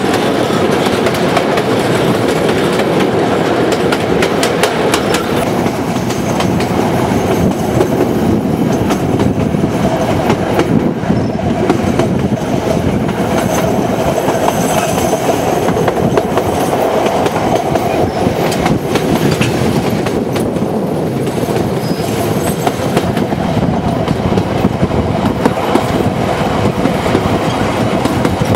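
Passenger carriages running along the track: a loud, steady rumble of wheels on rail with repeated clicks over the rail joints, heard close from the open platform of a carriage.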